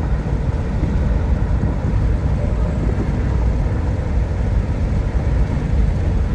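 Steady road and engine noise heard inside a car cruising at highway speed: a low, even rumble of tyres and engine.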